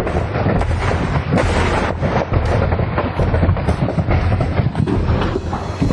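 Munitions exploding in a fire: a continuous low rumble shot through with dense crackling pops and repeated blasts.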